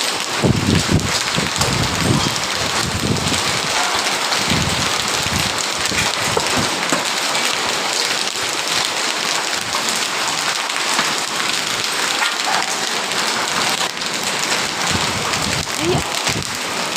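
Heavy rain mixed with hailstones, falling steadily and hitting surfaces.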